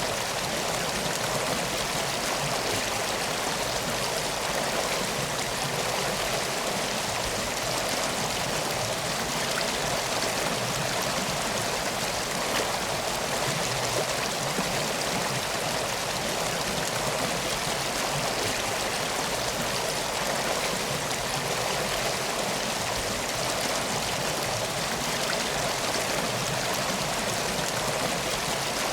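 Flowing river water: a steady, even rush with no breaks or changes.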